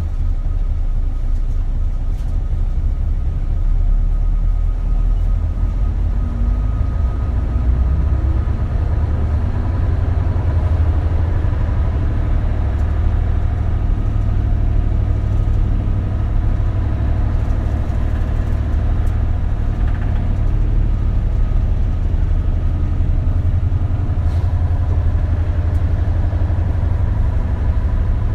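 Isuzu Erga (KL-LV280L1) city bus's diesel engine running on the road, heard from inside the passenger cabin: a steady low drone with engine notes that rise and shift, and a faint steady high whine above it.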